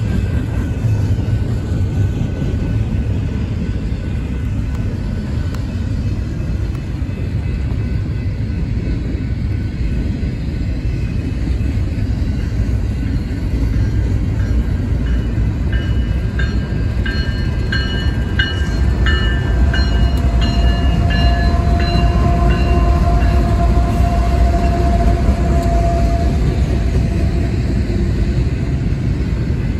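Double-stack intermodal well cars of a BNSF freight train rolling past close by: a steady low rumble of wheels on rail. High-pitched squeals come and go through the middle, growing a little louder.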